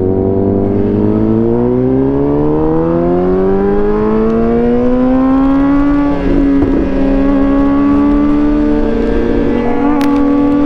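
Suzuki GSX-R750's inline-four engine heard on board, pulling up through the revs in one gear for about six seconds, then holding a nearly even speed. A short click comes near the end.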